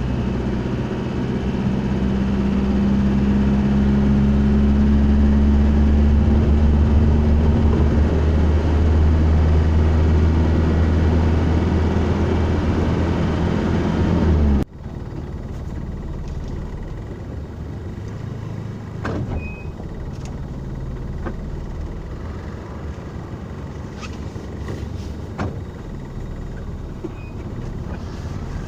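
Motor vehicle engine running steadily with a low drone that rises slightly in pitch over the first few seconds. About halfway through it cuts off abruptly to a quieter steady rumble with a few faint ticks.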